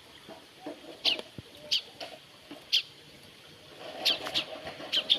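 A caged bird chirping: about seven short, high chirps, each a quick downward sweep, spaced out at first and coming faster near the end.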